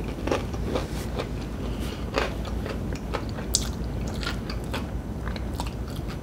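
A person chewing and biting crispy breaded fried chicken: irregular crunches of the breading with mouth sounds between them.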